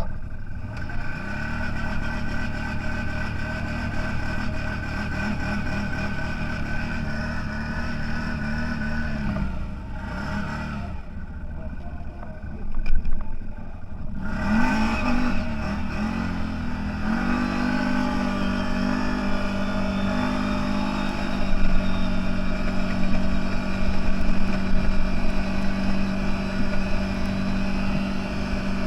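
Engine of a CFMOTO 1000 off-road vehicle running under way at a steady pitch. It eases off about ten seconds in, there is a loud thud a few seconds later, and then it revs up again and holds steady.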